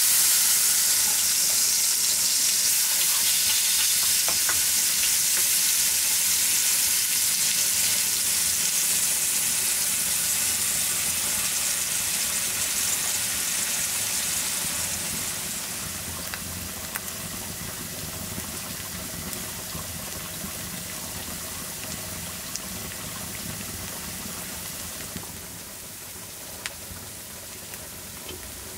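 Chopped onion sizzling in hot fat in a skillet over embers: a loud, even hiss that begins suddenly as it hits the pan and slowly dies down, with a few faint pops.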